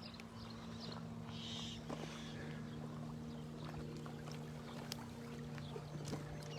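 Steady low motor hum holding a constant pitch, with faint scattered ticks of footsteps and a short high chirp about a second and a half in.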